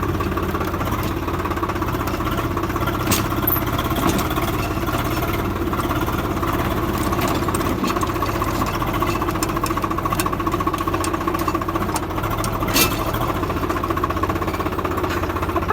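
Swaraj 855 tractor's diesel engine running steadily at an even pace, with a couple of brief sharp clicks over it.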